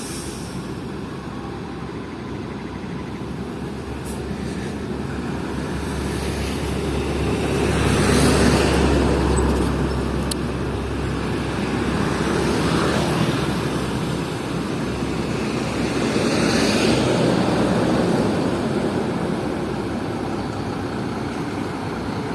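Hino FL 260 JT truck driving under a heavy coal load, its diesel engine and road noise running steadily and swelling louder three times, about a third of the way in, near the middle and past the three-quarter mark.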